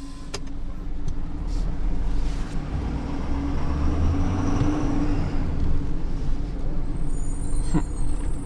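Tow truck's engine running steadily, with a brief knock near the end.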